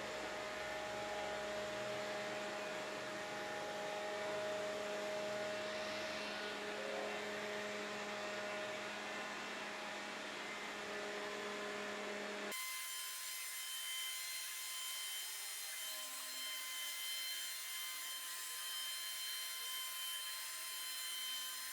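iRobot Roomba 606 robot vacuum cleaning a tiled floor: its motor and brushes make a steady rasping whir with a thin whine. About twelve seconds in, the sound turns abruptly thin and hissy as the low part drops out.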